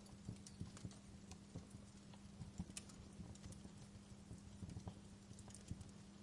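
Wood fire crackling, with scattered sharp pops and snaps at an uneven pace over a steady low hum.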